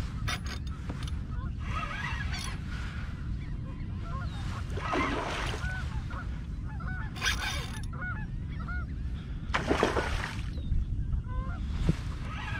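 Many short bird calls, clustered in the middle, with two bursts of water splashing about five and ten seconds in.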